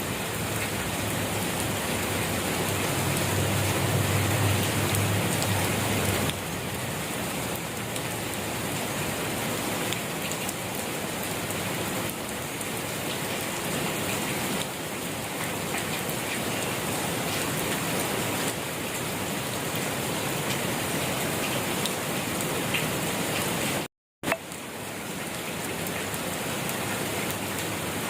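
Steady rain falling and pattering on surfaces as an even hiss, with a low rumble under it for the first few seconds. About three-quarters of the way through the sound cuts out completely for a moment, then comes back with a click.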